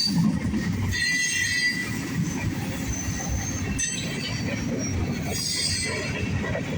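Freight cars of a CSX mixed manifest train rolling past with a steady low rumble, their steel wheels squealing high-pitched in bursts about a second in, around three seconds and again near five to six seconds.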